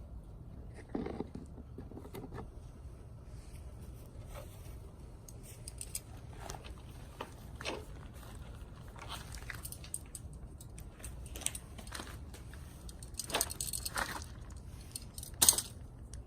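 Small dry twigs snapping and crackling in a small wood fire in a stainless mini fire pit, in irregular scattered cracks, with one sharper, louder crack near the end.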